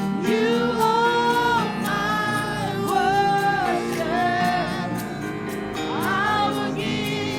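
Worship music with singing: held, gliding vocal lines over steady instrumental backing with a soft regular beat.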